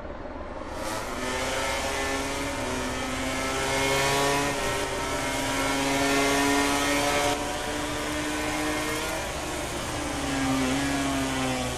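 MotoGP racing motorcycles' 1000 cc four-cylinder engines running hard, several at once, their pitch rising and falling as they rev through the gears.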